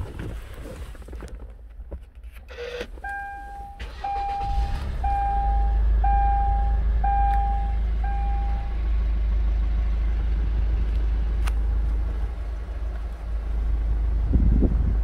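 2010 Kia Sorento's 2.0-litre diesel engine starting about four seconds in and settling into a steady low idle. A dashboard warning chime beeps six times, about once a second, as it starts.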